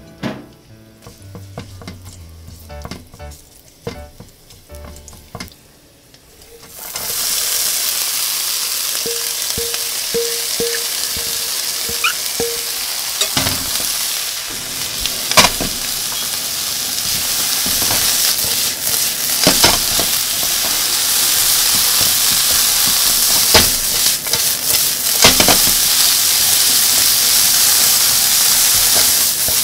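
Minced garlic sizzling faintly in a little oil in a nonstick frying pan; about seven seconds in, sliced bitter melon goes in and sets off a loud, steady sizzle. The slices are stir-fried with a spatula that scrapes and knocks against the pan now and then, and the sizzle grows a little louder after the heat is turned up to high.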